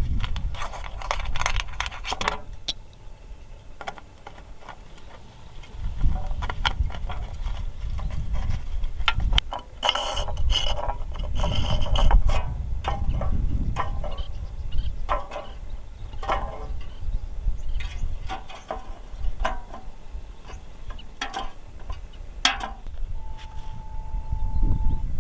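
Hand work on a small object: irregular clicks, taps and scrapes over a low rumble, with a short steady tone near the end.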